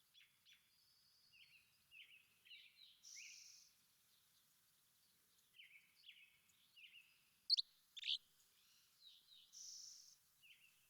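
Several small birds singing and chirping, a busy chorus of short high chirps and trills, with two louder sharp calls about seven and a half and eight seconds in.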